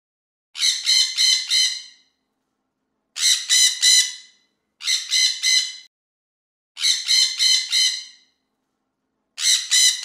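Harsh bird squawks in five bursts of three or four calls each, with dead silence between the bursts; the last burst runs on past the end.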